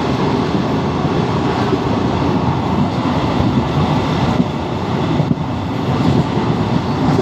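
Passenger train running along the track: a steady, loud rumble and rattle of the moving coaches.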